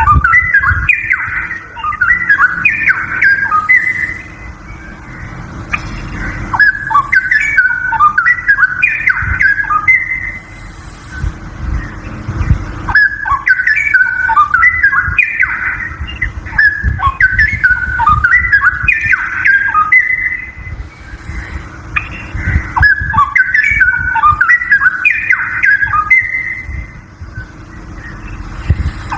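Straw-headed bulbul (cucak rowo) singing: four phrases of fast, varied whistled warbling, each lasting a few seconds, with short pauses between, over a steady low hum.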